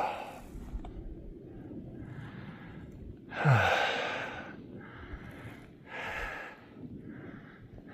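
A man's heavy breathing as he hikes, a run of breaths about a second apart, with one loud sighing exhale about three and a half seconds in.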